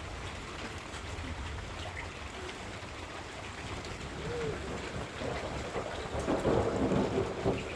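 Steady heavy rain with a low rumble underneath. Near the end a louder, brief pitched sound rises over the rain.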